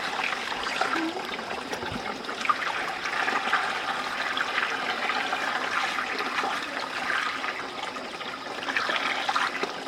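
Running water: a steady trickling and splashing flow.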